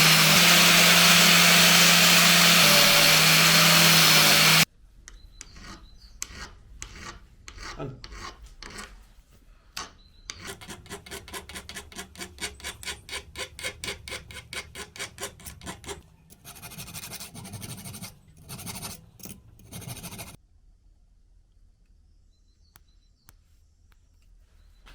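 A power tool runs steadily with a low hum for the first few seconds and cuts off suddenly. Hand rubbing follows: a scraping rasp in quick, even back-and-forth strokes of about four a second, broken by pauses, which stops a few seconds before the end.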